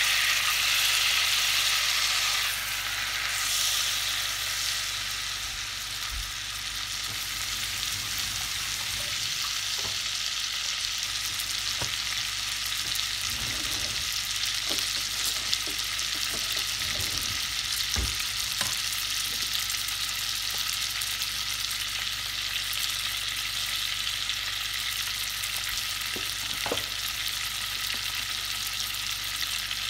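Tuna steak searing in melted butter in a pan: a steady frying sizzle, loudest in the first couple of seconds just after the fish is laid in, then settling to an even hiss with a few light clicks.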